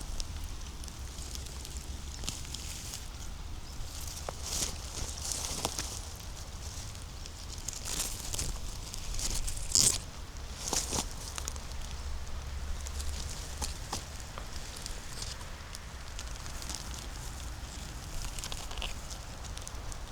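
Footsteps crunching and rustling through leaf litter and twigs on a forest floor, in irregular bursts with the loudest crunch about halfway through, over a low steady rumble.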